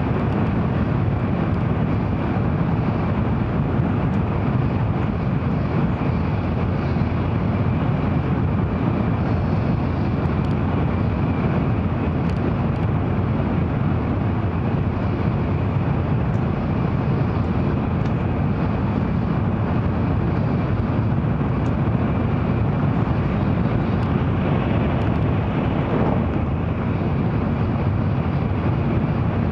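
Steady low rumble of an N700 series Shinkansen running at speed between stations, heard inside the passenger cabin.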